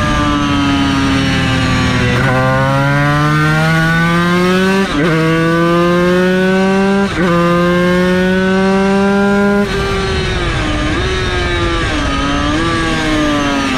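Yamaha TZ250 two-stroke V-twin race engine under way on track: the revs fall, then climb hard through the gears with two quick upshifts, then the throttle closes and the revs drop and waver.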